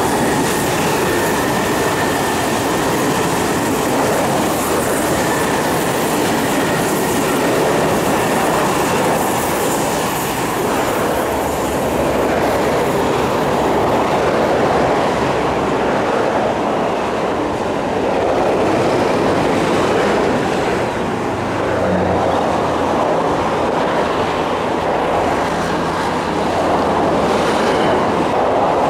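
East Rail Line electric multiple-unit trains running along the curved track, a steady rumble of wheels on rail with some clatter. A faint high whine sounds over the first few seconds, and a low hum joins in later.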